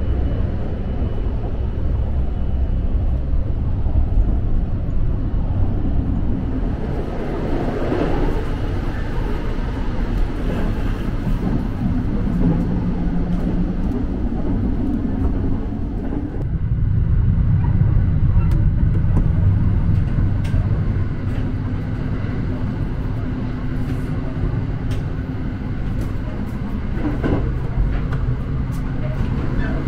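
Sunrise Express 285-series sleeper train running, heard from inside its cars: a steady low rumble with light rattles and clicks. It gets louder about sixteen seconds in.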